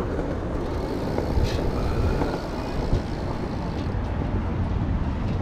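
Wind rumbling and buffeting on the microphone of a camera carried on a moving bicycle, with a few faint clicks.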